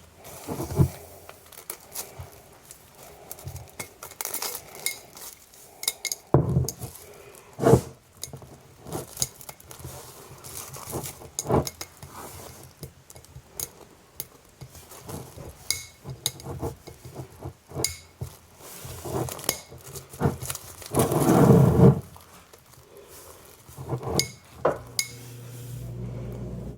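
Glass jar being handled while a rubber band is fitted around it: scattered clinks and knocks of glass, with a louder, longer knock about 21 seconds in.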